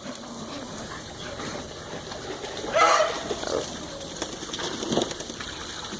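A dog's short vocal outburst about three seconds in, with a smaller one near five seconds, as small dogs play together.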